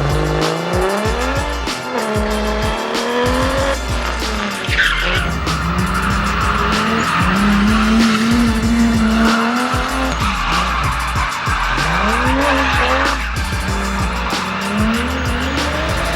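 Toyota 1UZ 4-litre V8 in a drift car revving up and down as the car slides. The tyres squeal for about eight seconds, starting about five seconds in.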